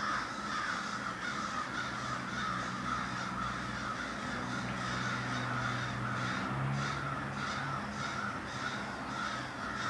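Many birds calling outside at once, a continuous chorus of overlapping calls, with a steady low hum underneath.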